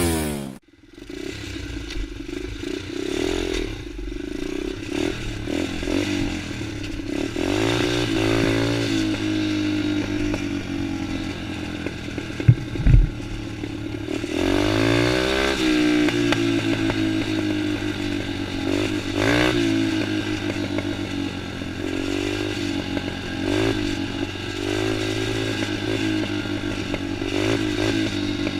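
Motocross bike engine running and revving, its pitch rising and falling with the throttle. Two sharp knocks come close together about midway.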